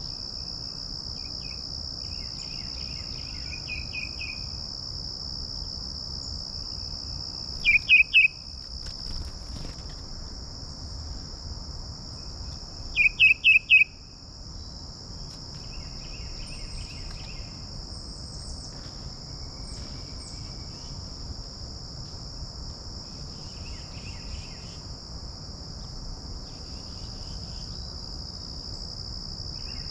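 A steady, high-pitched chorus of insects, typical of crickets, runs throughout, with songbirds calling over it. A loud series of three quick notes comes about eight seconds in and a series of four about five seconds later, with fainter chirping phrases between.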